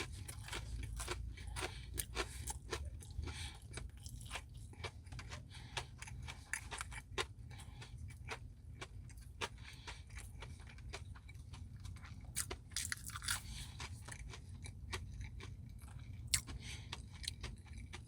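A person chewing mouthfuls of a Dairy Queen Blizzard with brownie and chocolate pieces, with a steady run of sharp, close-up mouth clicks and crunches.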